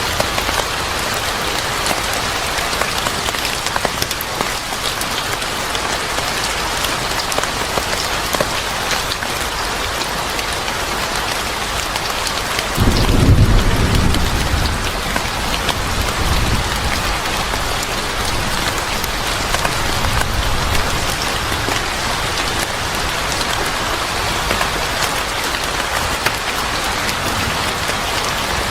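Steady heavy rain falling, with a rumble of thunder that breaks in about 13 seconds in and fades over a few seconds, and a fainter second rumble a little later.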